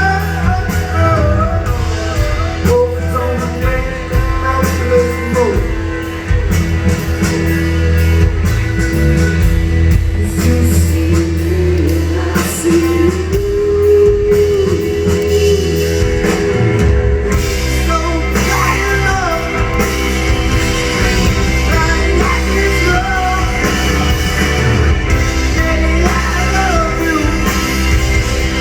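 Live rock band playing loud, with a singer over electric guitar, bass and drum kit.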